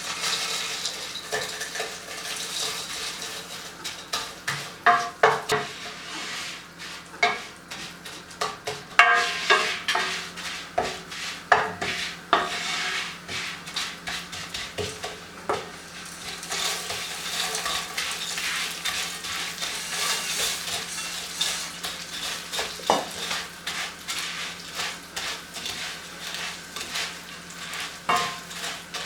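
Food sizzling in a frying pan while it is stirred with a utensil, with frequent clicks and knocks of the utensil against the pan over a steady hiss.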